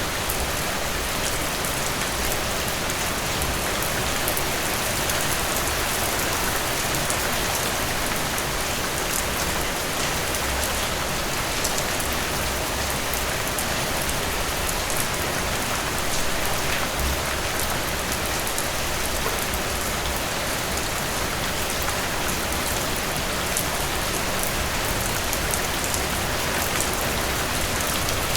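Steady rain falling on a surface, an even hiss with fine drop ticks throughout.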